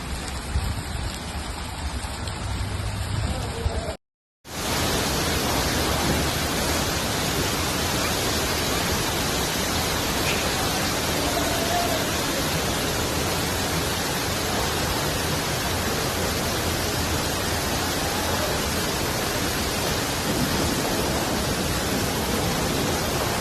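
Heavy rain pouring down as a steady, dense hiss. About four seconds in, the sound cuts out for a moment and comes back louder and more even.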